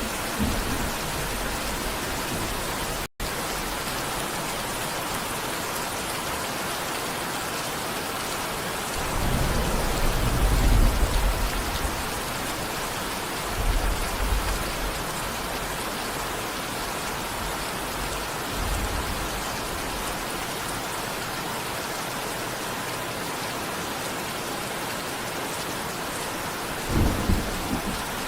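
Steady rain falling, with rolls of low thunder rumbling through it: the longest and loudest about a third of the way in, shorter ones later and one more near the end. The audio drops out for an instant about three seconds in.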